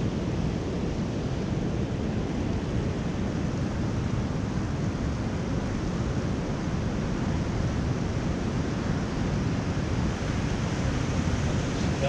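Steady rush of sea surf and wind, with wind buffeting the microphone.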